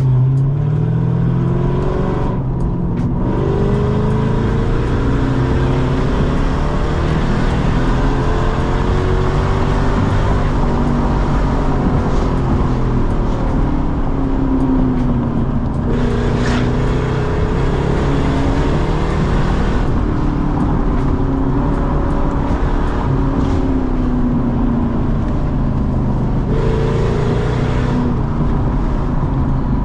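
Lexus SC400's 4.0-litre V8 with a loud exhaust, driven hard: the engine note climbs and falls again and again as it revs up and eases off through the gears.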